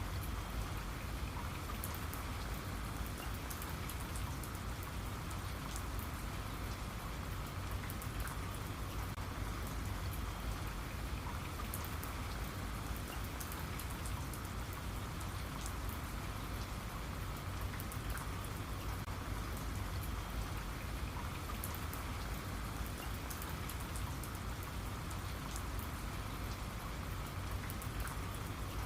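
Steady rainfall with scattered drops pattering on a surface, even and unbroken throughout.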